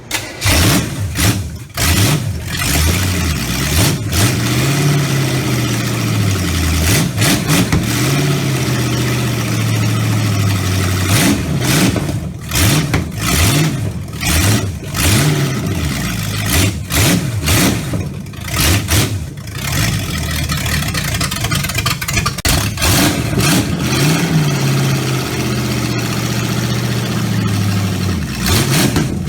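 Freshly rebuilt small-block Chevy V8 in a dirt race car, running loud and revved up and down repeatedly, engine speed rising and falling several times.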